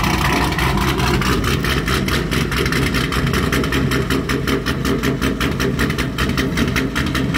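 Built, naturally aspirated V8 of a 2020 Chevrolet Camaro idling with a heavy chop, an even, rapid pulsing at about seven beats a second with no revving. A choppy idle like this is the sign of an aggressive camshaft in a high-compression engine.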